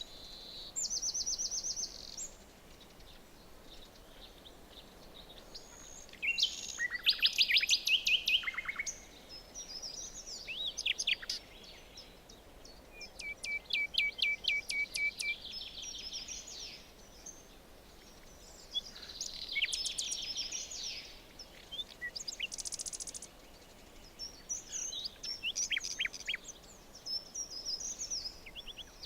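Several songbirds singing in a forest: short trills and rapid runs of repeated high chirps from different birds, one after another, over a faint steady background hiss.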